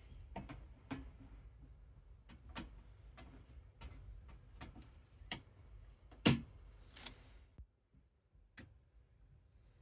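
Small plastic nanoblock pieces being handled and pressed together: irregular light clicks and taps, with two louder clicks about six and seven seconds in.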